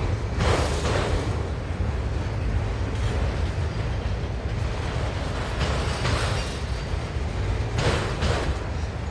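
Long freight train rolling slowly past: a steady low rumble of wheels on rail, with a few brief louder bursts of noise from the passing cars.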